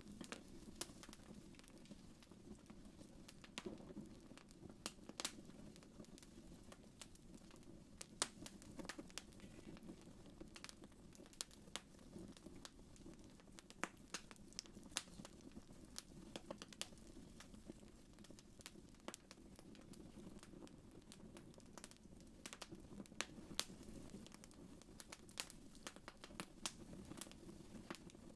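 Wood fire crackling faintly: irregular sharp pops and snaps over a steady low rush.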